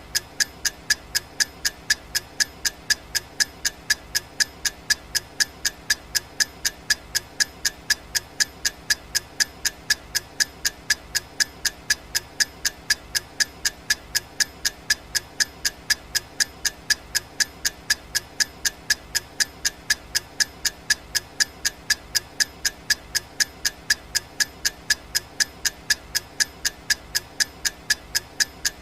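Clock ticking sound effect: sharp, evenly spaced ticks, about two a second, keeping time for a countdown timer.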